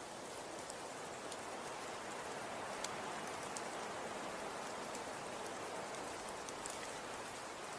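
Falling snow: a steady soft hiss with scattered faint ticks of flakes landing.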